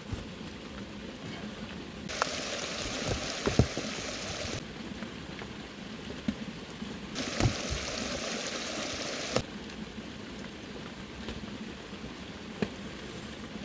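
Heavy rain falling, with scattered sharp pops and clicks. The rain's hiss jumps suddenly louder twice, for about two seconds each time, then drops back just as suddenly.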